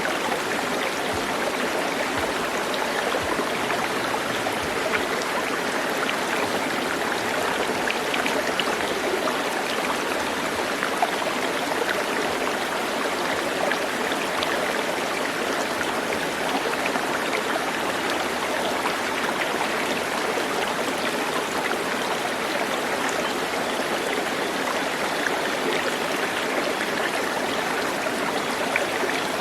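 Steady rush of flowing water, like a stream running over stones, continuous and unchanging.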